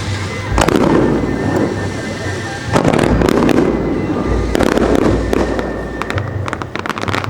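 Aerial fireworks shells bursting with loud booms roughly every two seconds, each trailing off in a rumble. A rapid run of crackling bursts comes near the end.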